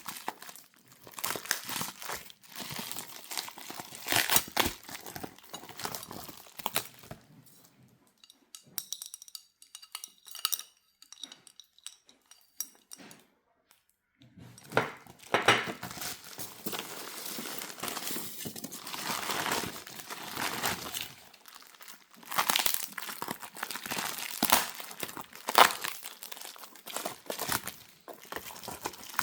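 Packaging around porcelain teacups being crinkled and torn open during unboxing, with a quieter stretch of faint, rapid light ticking in the middle.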